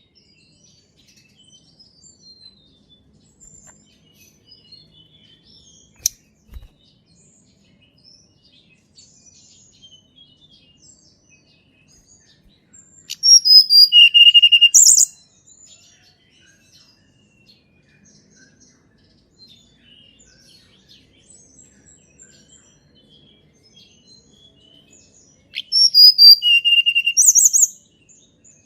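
Tledekan gunung (Sunda robin) singing two loud phrases about twelve seconds apart. Each phrase has a few falling high whistles, a held lower whistle and a quick high trill at the end. Faint chirps of other birds fill the gaps, with a single sharp click about six seconds in.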